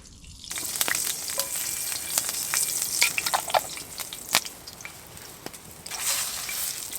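Food frying in hot oil with garlic in a pan over a campfire: a steady sizzle with sharp pops and crackles. It starts suddenly about half a second in, eases off in the middle and swells again near the end.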